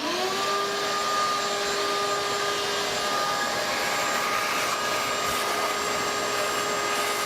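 Vacuum cleaner switched on, its motor quickly spinning up to a steady whine that runs on without a break. It is being used to suck mouse droppings and debris out of an engine block.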